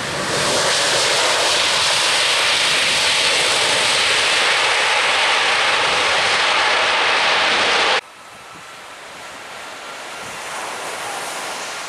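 Jet airliner engines roaring, loud and steady, cut off abruptly about eight seconds in. A quieter rushing noise with a faint steady whine follows and slowly grows louder.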